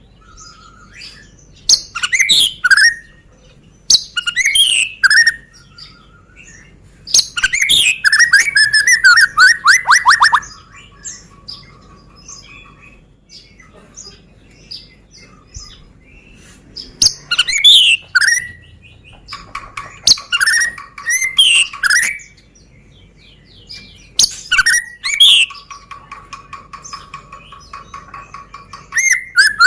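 White-rumped shama (Medan murai batu) singing loud bursts of varied whistled phrases and fast trills, separated by pauses of a second or two; several phrases end in a held, even lower note.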